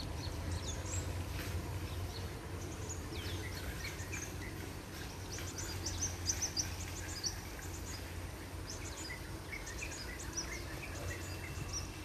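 Birds chirping and calling, many short quick chirps overlapping, thickest around the middle, over a steady low rumble.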